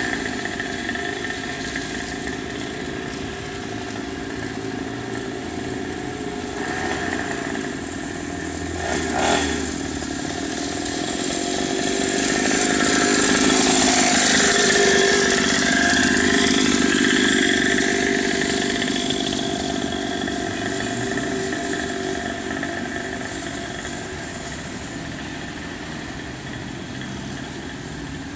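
Small 50cc mini motocross bike engine running, growing louder until about halfway through with its pitch bending, then fading away. A short knock is heard about nine seconds in.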